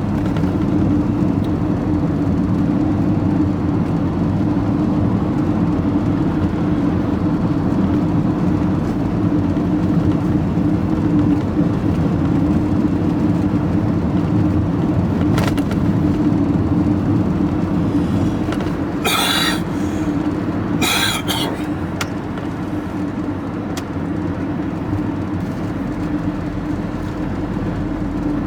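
Vehicle engine and road noise heard from inside the cab while driving: a steady drone, easing slightly about two-thirds of the way through, with two short hissing sounds about two seconds apart at that point.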